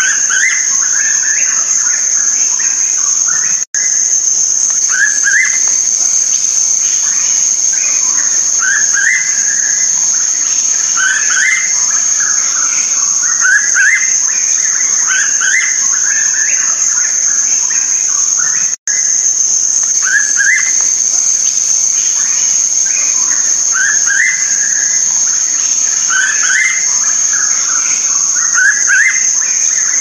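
Hooded pitta calling: short rising whistled notes, often in pairs, repeated every second or two, over a steady high-pitched cricket or insect drone. The sound cuts out for an instant twice, once about four seconds in and once near the middle.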